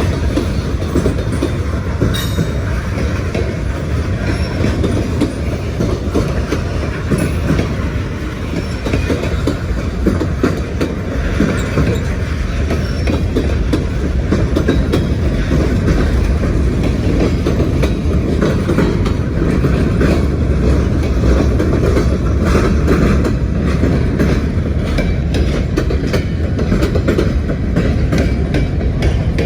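Freight train cars rolling past, their steel wheels clicking over rail joints on top of a steady rumble, with a few brief wheel squeals.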